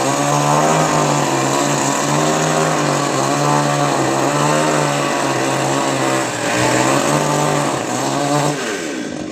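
Chainsaw running steadily, its pitch wavering a little, then dropping away shortly before the end.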